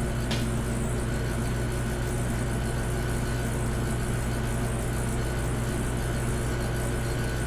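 Steady low machine hum with a faint high tone over it, and one faint click about a third of a second in.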